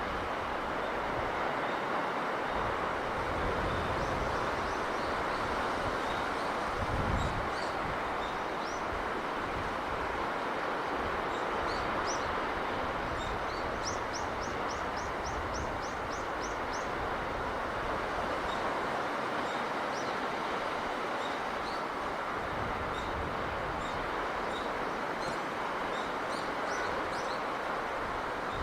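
Steady rushing of sea breeze, with small birds chirping high above it throughout; a quick run of about ten rapid notes near the middle. A brief low gust rumbles about a quarter of the way in.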